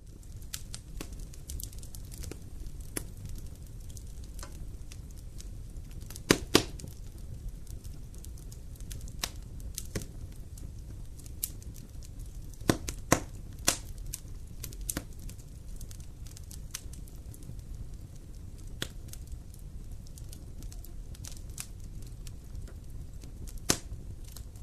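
Wood campfire burning, crackling with irregular sharp pops over a steady low rumble; the loudest pops come a little after six seconds, in a cluster around thirteen seconds, and once near the end.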